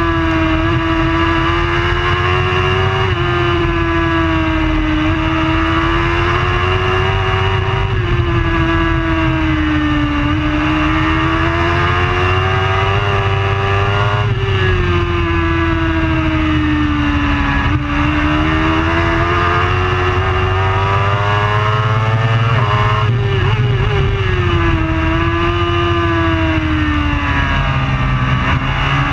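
Superbike engine running hard at high revs, its note climbing slowly and dropping sharply again and again through gear changes. A steady low rumble sits underneath.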